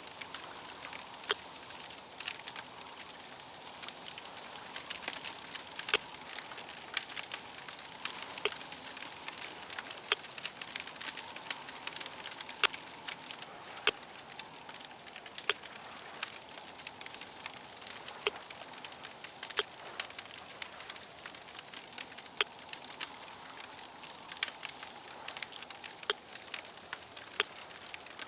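Fire crackling steadily, with frequent sharp, irregular pops over a soft hiss.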